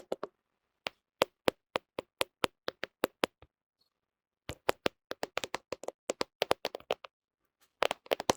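Fingernails tapping on a smartphone camera: sharp, separate clicks, about four a second. The tapping stops for about a second midway, returns faster, pauses briefly again and ends in a quick flurry.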